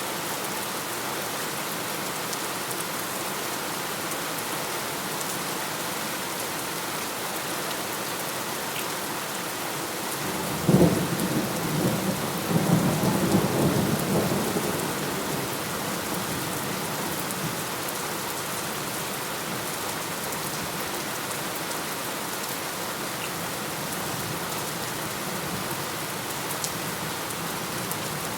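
Steady heavy rain. A thunderclap cracks about a third of the way in and rolls on in a rumble for several seconds before fading back into the rain.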